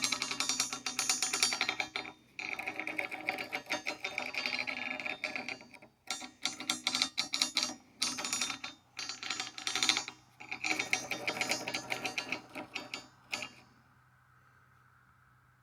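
Rapid scratching and clicking in bursts of a few seconds with short pauses between them, stopping about 13.5 seconds in.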